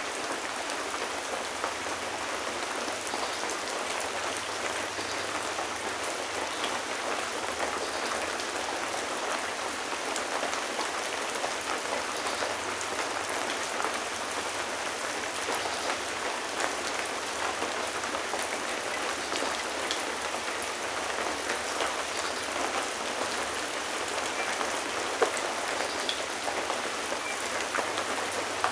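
Steady rain falling on a surface, an even hiss dotted with the ticks of individual drops, and one sharper drop tick near the end.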